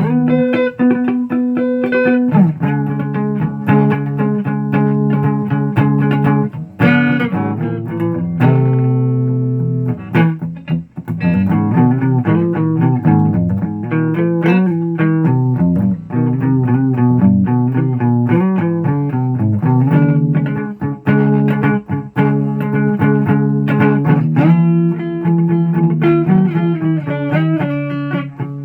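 Guitar being played, a run of picked notes and chords with a few brief pauses between phrases.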